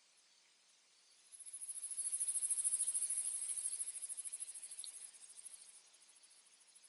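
Insect trill, very high-pitched and rapidly pulsing, that swells in about a second in and fades away over the next few seconds.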